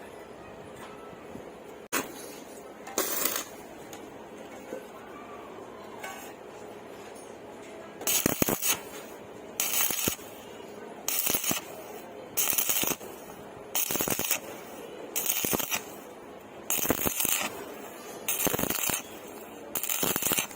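Stick welding arc crackling in short bursts, a few at first and then regularly about every one and a half seconds, each about half a second long: the arc struck and broken again and again, the stop-start trick used on thin metal.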